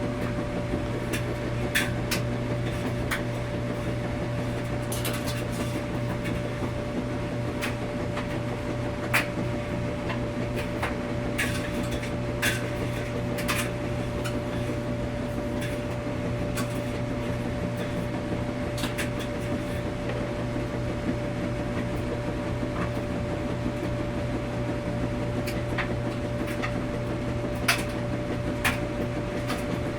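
Washing machine running with a steady hum and a constant tone, with sharp clicks and knocks at irregular intervals.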